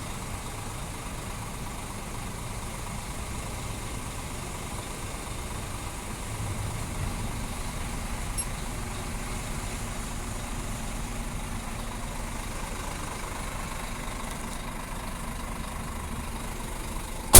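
Scania G 410 truck's diesel engine idling steadily, a low even hum.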